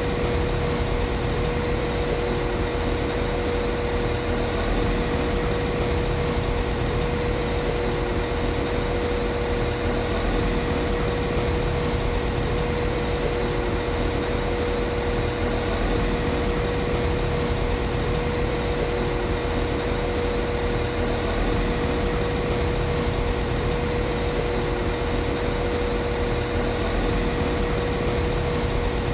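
Class 195 CAF Civity diesel multiple unit's underfloor MTU six-cylinder diesel engine idling steadily: a constant low rumble with a steady hum, no revving or change in pitch.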